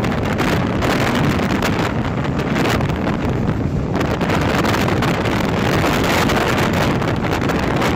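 Heavy wind buffeting a microphone held outside a moving express train, over the steady running noise of the train on the rails.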